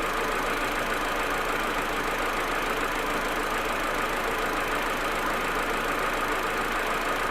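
Audi A4 1.8T's turbocharged four-cylinder engine idling steadily. This is the rough, stuttering cold idle the owner is chasing, which he says goes away once the engine is warm.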